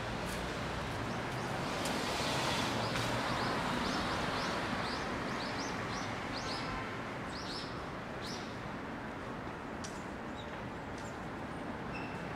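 Steady city traffic noise, with a bird giving a quick series of short high chirps, about two a second, from about three seconds in for some five seconds.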